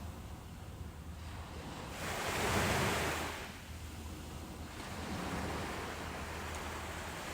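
Ocean waves breaking on a beach, with steady surf hiss. One wave rushes in loudest about two to three seconds in, then washes out, and a softer swell follows.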